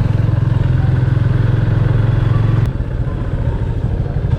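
Motorcycle engine running with an even, pulsing beat. About two and a half seconds in there is a sharp click, and the engine note drops lower and gets a little quieter.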